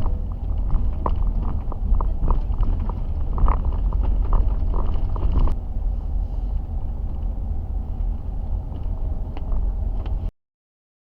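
A car driving on a rough, unpaved road: a steady low rumble with scattered knocks and clicks. It cuts off suddenly near the end.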